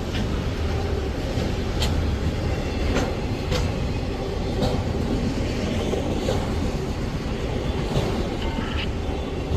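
Freight train's auto rack cars rolling past close by: a steady rumble of wheels on rail with a scattering of sharp clicks.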